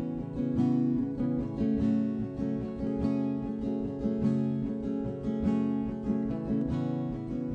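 Background music: strummed acoustic guitar playing a steady rhythm, with no singing.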